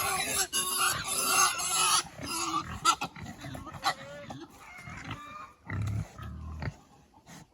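Pigs grunting and squealing, loudest and highest-pitched in the first two seconds, then scattered quieter low grunts that fade near the end.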